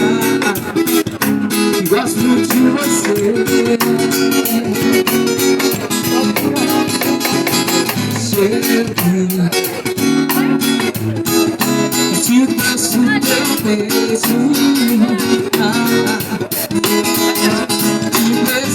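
Acoustic guitar strummed in a steady rhythm, playing the introduction to a song.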